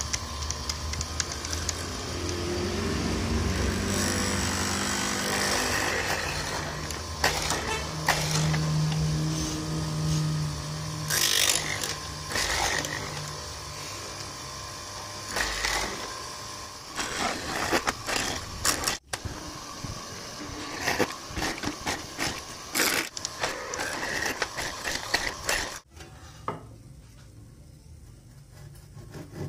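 A motor vehicle's engine running in the first half, then scattered knocks and clatter of wood and tools being handled, with a quieter stretch near the end.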